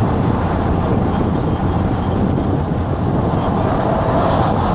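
Steady road and wind noise inside a car travelling at highway speed, about 70 mph.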